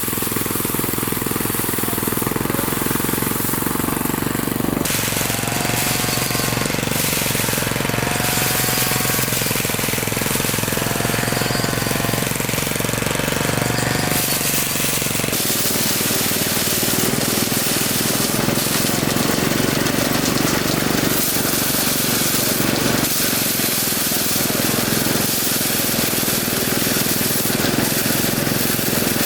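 A small engine-driven machine running steadily, its sound shifting about five seconds in and again midway through.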